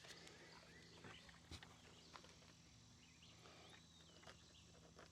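Near silence: faint outdoor ambience with a few soft, distant bird chirps and light ticks.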